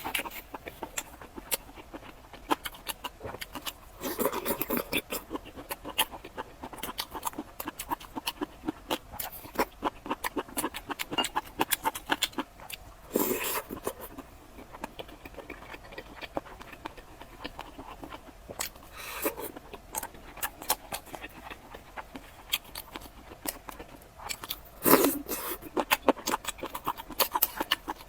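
Close-miked eating: a person chewing food, with many small wet mouth clicks and a few louder crunchy bites or swallows spread through.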